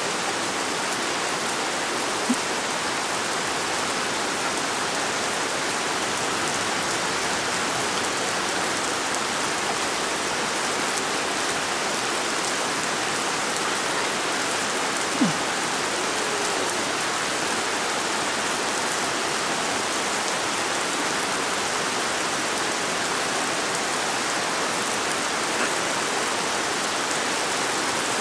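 Steady rain falling, an even hiss, with two faint brief clicks about two seconds in and halfway through.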